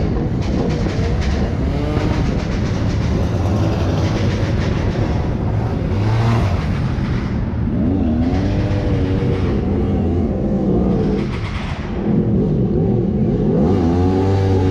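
Car engines running and revving, their pitch rising and falling several times, with a brief drop in level about twelve seconds in before a steady idle.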